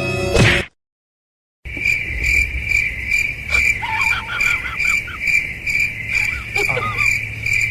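Cricket chirping steadily, about two chirps a second, starting after a brief music snatch cuts off into a second of silence; a few faint, wavering squeaks sound over it midway.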